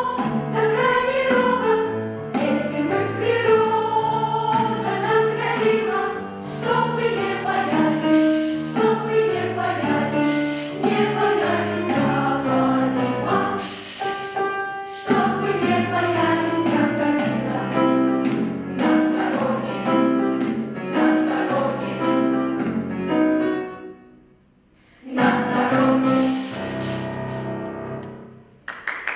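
Children's choir singing a song together, breaking off briefly about three-quarters of the way through before a last sung phrase.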